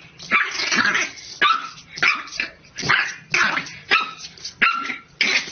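A dog barking over and over, about eight sharp barks in quick succession.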